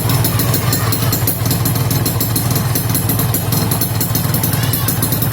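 Yamaha RX-King's 135 cc two-stroke single-cylinder engine idling steadily through an aftermarket Altech 17 exhaust, with a fast, even pulse.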